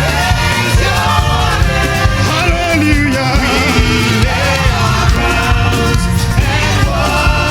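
Live gospel praise band playing at a steady loudness, with drums and bass underneath and wavering melody lines, likely voices, on top.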